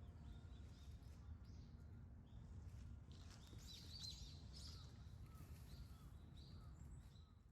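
Faint chirps of small birds over a low, steady outdoor rumble, with a cluster of calls about three to five seconds in; the sound fades out near the end.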